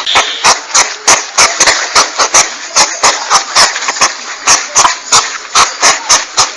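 Porcupine calls: a rapid, uneven string of short sharp huffs, about four a second, over a constant hiss.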